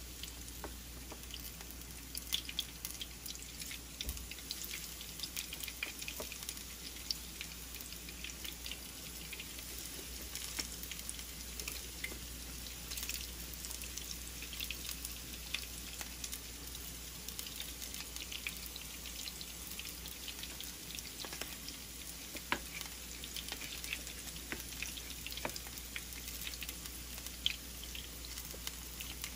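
Battered asparagus spears frying in shallow oil in a nonstick frying pan: a steady sizzle with frequent small crackling pops.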